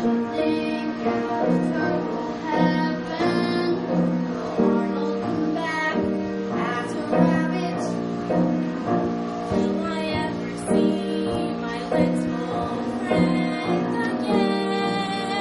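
Live stage-musical music with piano accompaniment, a slow run of sustained notes changing about once a second.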